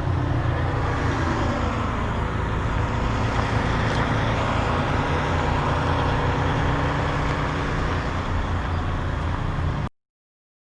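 Semi truck's diesel engine running steadily at idle, a constant low rumble that cuts off abruptly near the end.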